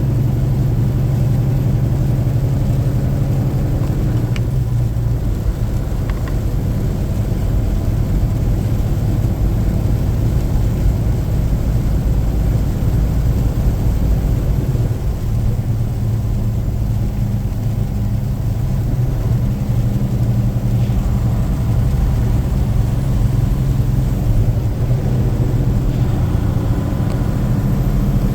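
A car being driven at a steady pace: engine and road noise as a constant low drone, with a few faint knocks.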